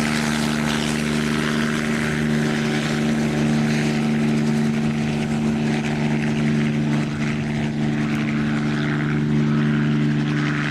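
Propeller aircraft engine running steadily: a constant droning hum that holds one pitch throughout.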